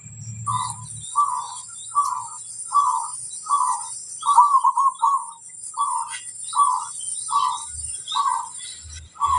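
Zebra dove (perkutut) cooing a long run of short, evenly spaced notes, about three every two seconds, over a steady faint high-pitched ring.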